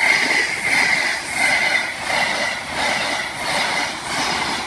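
East Coast HST (InterCity 125) passing at speed over a level crossing, its coaches rushing by with a regular beat of wheels over the rail joints, a little more than once a second.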